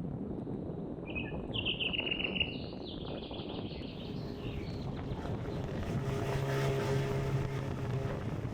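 Boat motor running with a steady low rumble that settles into an even engine hum about six seconds in. A songbird sings over it for a few seconds near the start.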